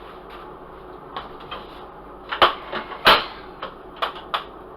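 A run of short knocks and clunks from things being handled in a kitchen, about seven in all, the loudest two around two and a half and three seconds in.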